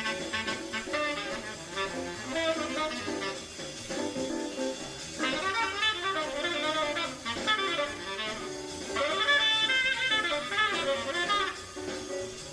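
Jazz recording: a tenor saxophone plays a fast improvised line over a rhythm section, in phrases that come on strongest about five seconds in and again about nine seconds in.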